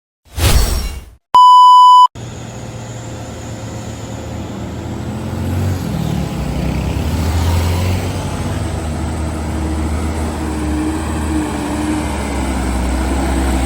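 A loud electronic beep tone lasting about half a second, then a heavy diesel truck engine running steadily. The engine sound grows louder over several seconds.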